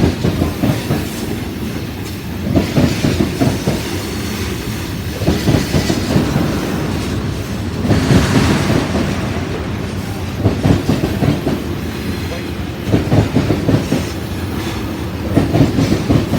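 Freight train cars rolling past, their wheel sets clacking over rail joints in bursts that come round about every two and a half seconds, with a brief rise in higher-pitched wheel noise about halfway through.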